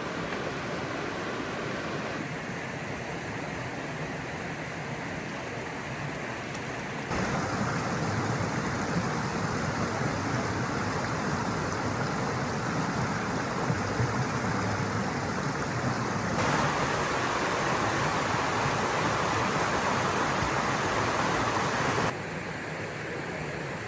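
Rushing water, a steady noise that changes abruptly several times, jumping louder about seven seconds in and dropping back near the end.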